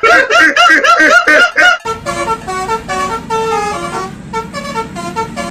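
Telolet bus horn, a multi-tone musical horn, sounding a rapid warbling pattern of rising and falling tones, then about two seconds in switching to a melody of held notes at changing pitches.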